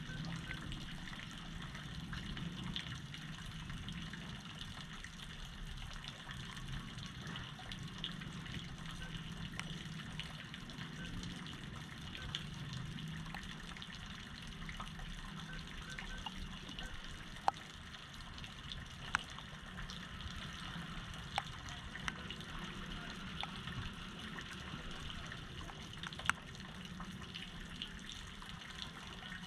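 Floodwater running and splashing steadily, with a low hum under it that fades about halfway through, and a few sharp drip-like ticks near the end.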